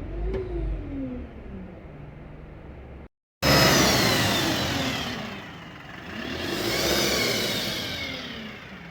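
Euro 6 diesel engine of a 2022 Alexander Dennis Enviro 200 single-decker bus, revving briefly and settling. After a sudden cut it comes back much louder, its pitch falling, rising and falling again as the engine is revved or the bus accelerates and eases off.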